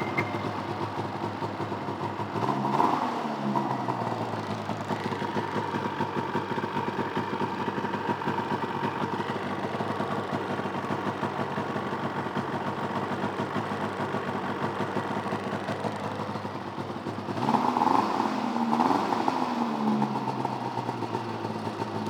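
A 2005 Ski-Doo Highmark 1000 SDI snowmobile's two-stroke twin idles through an aftermarket "The Thing" exhaust can. It is blipped once about three seconds in and twice more near the end.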